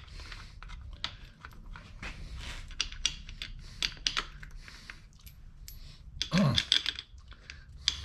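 Loose steel bolts clinking and tapping against one another and on metal as they are handled and set in place: a string of light metallic clicks, with a louder clatter about six seconds in.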